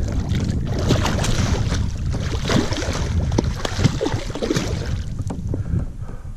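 Wind buffeting the microphone, with a run of splashing and small knocks of water and gear around a canoe that dies down near the end.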